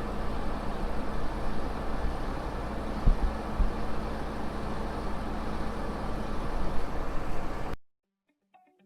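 Combine harvester running with a steady drone and low hum, with two sharp knocks about three seconds in. It cuts off abruptly near the end, and guitar music starts faintly.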